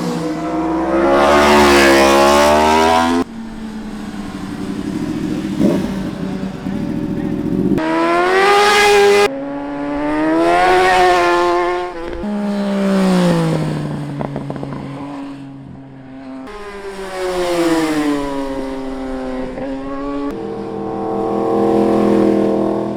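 Superbike engine under hard acceleration, its pitch rising several times and then cutting off sharply as the throttle closes, with stretches of falling pitch as the bike slows between runs.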